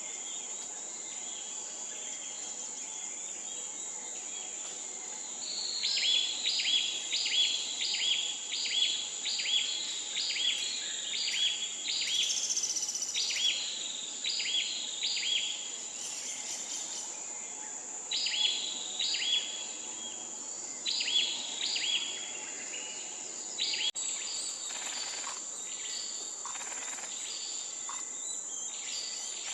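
A bird calls in a long series of short, falling notes, about two a second, for some fifteen seconds. It calls over a steady, high-pitched insect drone.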